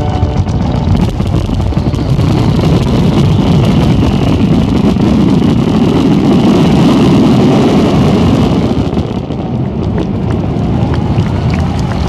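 Fireworks finale barrage: many shells bursting at once, a dense continuous rumble of booms with crackling, swelling to a peak and easing off near the end.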